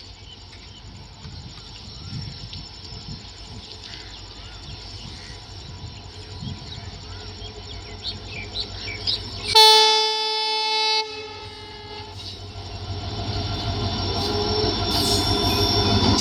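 WDG-4D diesel-electric locomotive sounding its horn once, loudly, for about a second and a half near the middle, over the running rumble of the train, which grows steadily louder toward the end.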